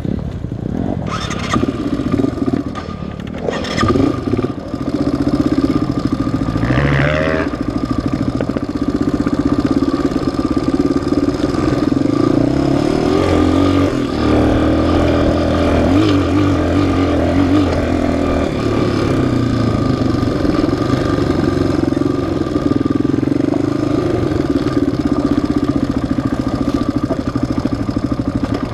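Off-road engine of an ATV or dirt bike running under riding, its pitch rising and falling with the throttle.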